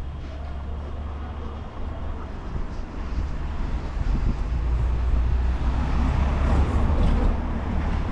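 A low engine rumble, steady underneath, with a rushing noise that grows louder over the middle and eases slightly near the end.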